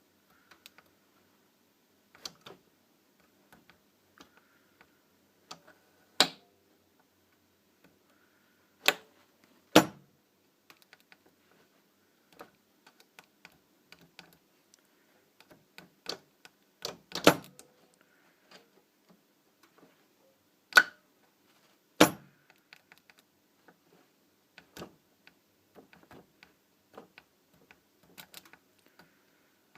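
Starter solenoid of a 1975 Citroën DS clicking, a sharp click every second to few seconds at irregular intervals, with no starter motor cranking after it: the solenoid is not pulling in with full force.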